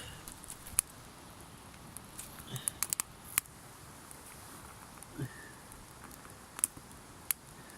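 Wood campfire crackling, with a few sharp, isolated pops and snaps spread a second or more apart.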